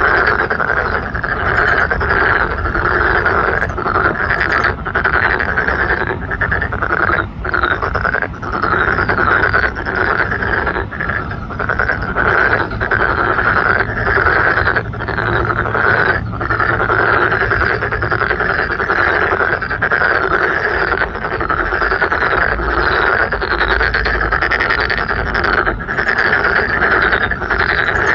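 A loud, dense chorus of native Korean frogs croaking, many calls overlapping without a break.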